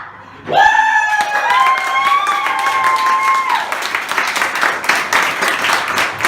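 Audience applause with dense clapping that starts about a second in and carries on. Over the first few seconds a single voice holds one long note.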